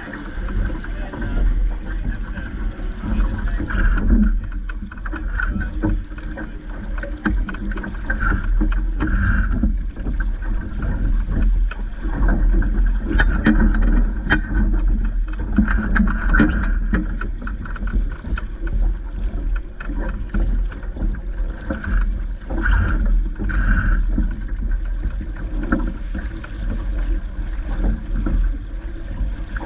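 Wind buffeting the microphone and water splashing and slapping around a boat, with scattered small knocks throughout.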